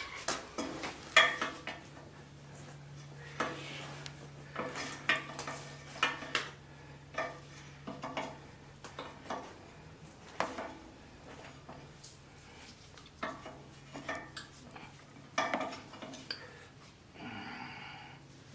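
Metal parts clinking and knocking against each other at an irregular pace, each knock ringing briefly, over a faint steady hum. There is a short rasping sound near the end.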